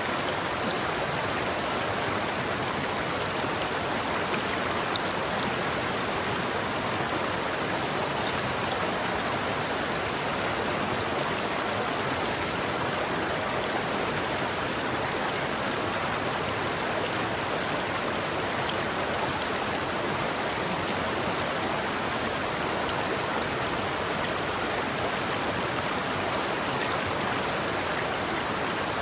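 River water flowing over rocks: a steady, even rush and babble of running water.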